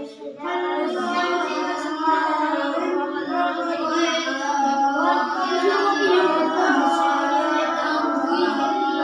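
Children chanting Qur'an recitation in a sustained, melodic voice, with a short break just after the start.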